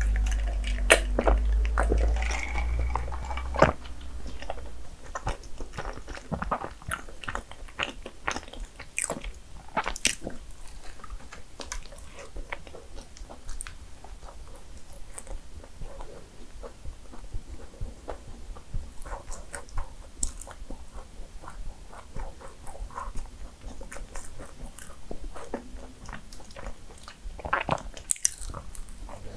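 Close-miked eating of a cinnamon roll: irregular biting, chewing and crunching clicks, with a low rumble in the first few seconds.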